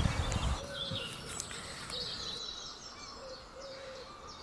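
Wild birds calling in the background: faint chirps and short, high notes repeated many times, with a few lower calls mixed in. A low rumble, like wind or handling noise, fills the first half second.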